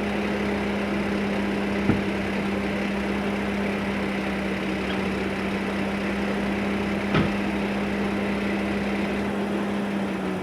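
Two sharp clicks, about two seconds in and about seven seconds in, from a 2013 BMW 535i, with a fainter tick between them, over the car's steady idling hum. The owner suspects the clicks come from the brakes.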